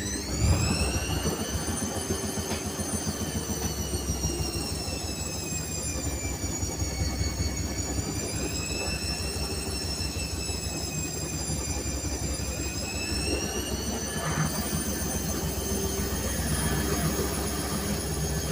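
Whirlpool washing machine spinning: a high motor whine climbs in the first second, then wavers slowly up and down, over a fast low rumble from the turning drum.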